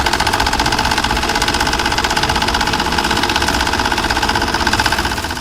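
Electric sewing machine stitching steadily at speed, a fast even run of needle strokes with a steady whine from its motor, starting and stopping abruptly.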